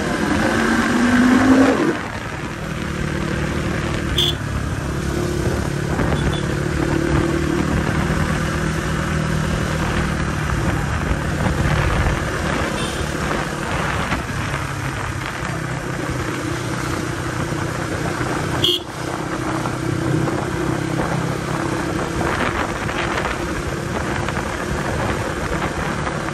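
Off-road motorcycle engine riding through traffic. In the first two seconds it revs up with rising pitch, then drops back and runs on at a steady, varying throttle. Twice there is a brief horn toot.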